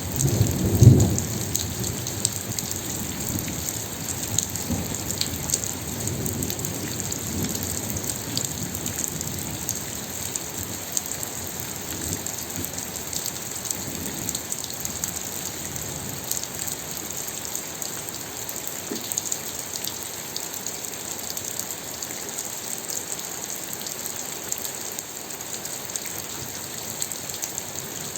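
Steady rain falling, an even hiss with many individual drops pattering. A low rumble of thunder swells about a second in and dies away over the next several seconds.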